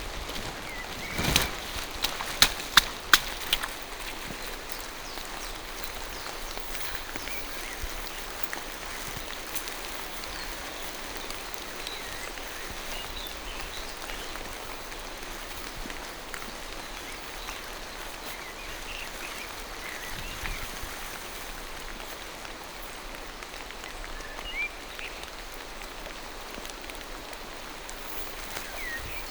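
Steady rain falling through a forest, an even hiss. Faint, scattered bird chirps sound in the distance. A handful of sharp taps comes in the first few seconds.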